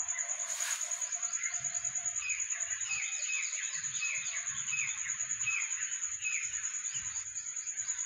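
Small birds chirping in a quick series of short, falling calls, about two or three a second, over a steady high-pitched trill. There is a brief rush of noise about half a second in.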